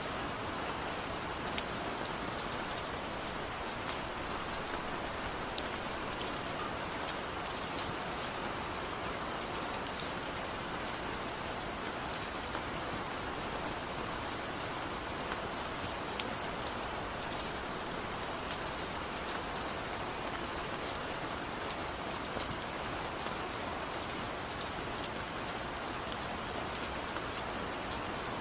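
Steady rain falling, with a constant hiss and many small drops ticking on nearby surfaces.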